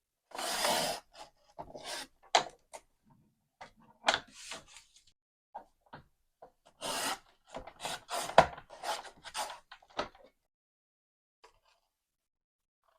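Paper trimmer cutting paper: the blade is drawn along the paper in several scraping strokes, with short clicks of the trimmer and paper handling between them.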